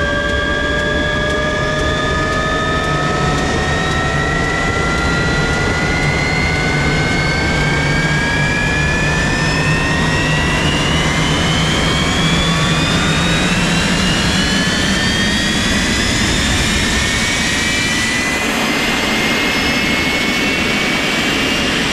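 Jet engine running with a steady rushing blast and a high turbine whine that rises slowly and evenly in pitch throughout, as the engine spools up.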